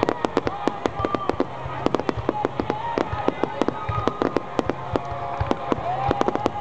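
Fireworks going off in rapid succession: a dense crackle of sharp reports, several a second, continuing without a break.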